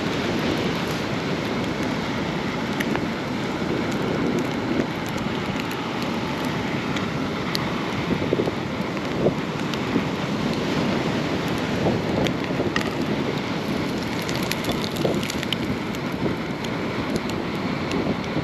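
Steady noise of wind buffeting the microphone, with scattered faint clicks.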